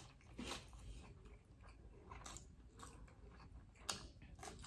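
Faint close-up eating sounds: chewing with scattered small crunches, and a sharper crunch about four seconds in as a raw petai (stink bean) is bitten.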